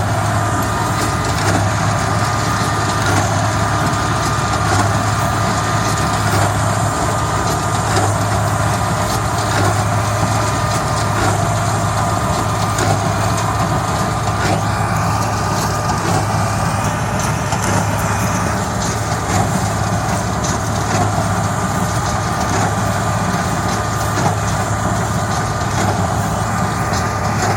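Hesston 4700 big square baler working behind a tractor: the engine runs steadily under load while the baler makes repeated crunching knocks as it packs the crop.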